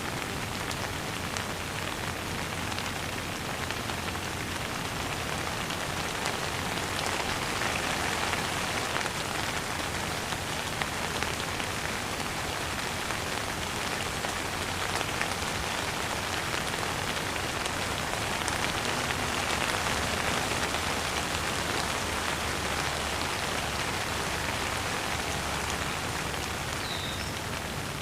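Steady rain falling, with a dense patter of drops hitting a surface that swells a little louder now and then.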